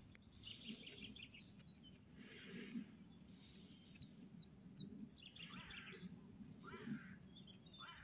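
Songbirds chirping and trilling faintly, with a few quick falling notes about five and seven seconds in, over a low steady outdoor background noise.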